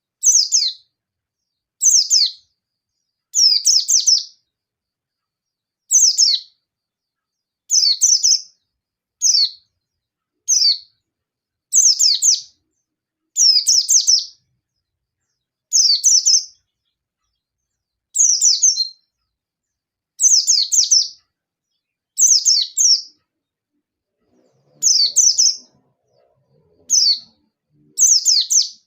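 Yellow-breasted white-eye calling in short, rapid bursts of high chirps that fall in pitch, one burst about every one to two seconds: the aggressive 'nembak' calling of a bird challenging a rival.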